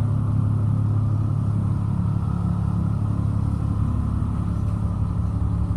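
Caterpillar 3126 inline-six diesel of a 2004 Blue Bird All American school bus idling steadily with a low, even hum, heard from inside the bus cabin.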